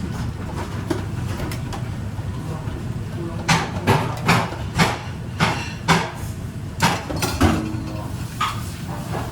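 Steady low hum of restaurant kitchen ventilation, with a quick run of about nine sharp knocks and clatters, like kitchenware being handled, in the middle.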